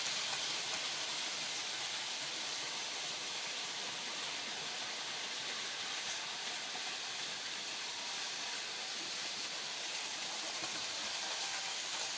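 Märklin model trains running along the track: a steady, even whirring hiss of small motors and wheels on the rails.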